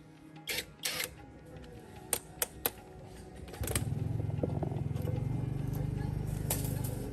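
A few sharp metal clicks and clanks, then about three and a half seconds in a motor starts and runs steadily with a low, fast pulsing.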